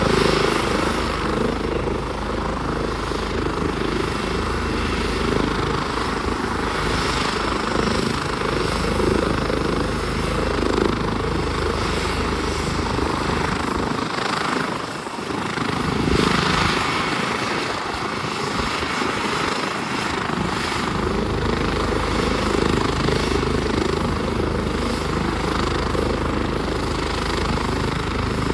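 Helicopter turbine engine and rotor running steadily and loudly, with the deep rumble briefly thinning out about halfway through.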